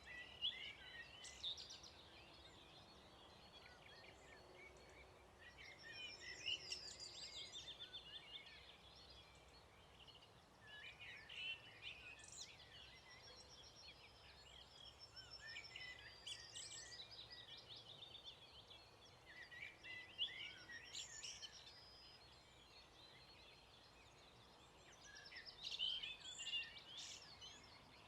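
Songbirds singing faintly in short, varied phrases that come every four to five seconds, six in all, over a quiet steady background hush.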